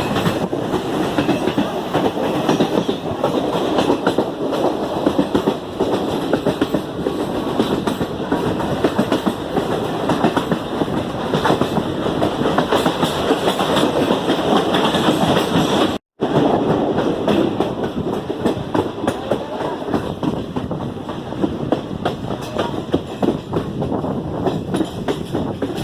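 Passenger express train running on the track: a steady rumble and clatter of coach wheels over the rails, with rapid clicks from rail joints. The sound drops out for an instant about two-thirds of the way through.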